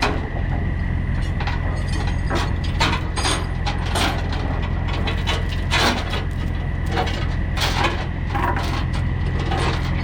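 Tie-down chain and binder hardware clanking and clicking irregularly as an excavator is chained down on a lowboy trailer, over a steady low hum.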